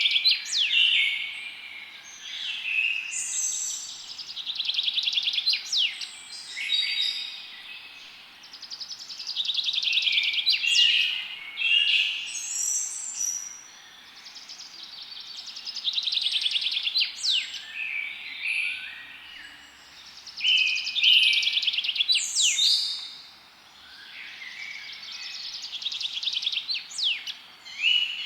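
Songbirds singing: rapid trilled phrases that recur about every five seconds, with short sharp chirps between them.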